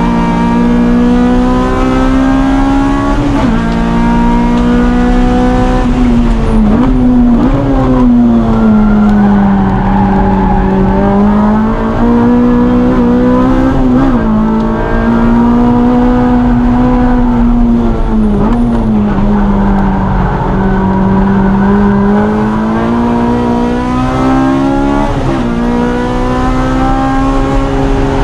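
Car engine driven hard around a race track, its pitch climbing and sagging with the throttle, broken by several quick dips at gear changes.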